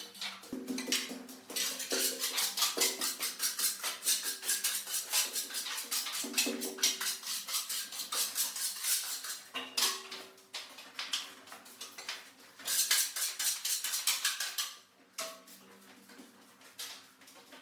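Rapid, continuous scraping and clinking of hard objects being worked or handled, with a steady faint hum underneath; the scraping stops about fifteen seconds in.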